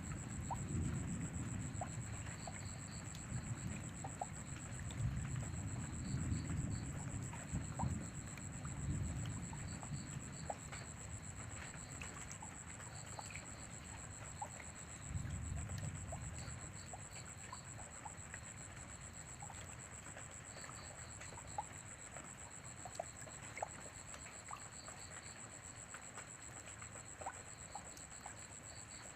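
Rain falling with scattered drops ticking, under low thunder rumbling that fades over the first ten seconds, swells briefly again near the middle and then dies away. A steady thin high whine runs throughout, with a faint pulsing chirr beneath it.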